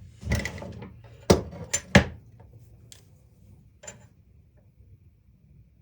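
Hard objects clattering as things are handled and moved about: a short rustle, three sharp clacks in the first two seconds, then two lighter clicks before it goes quiet.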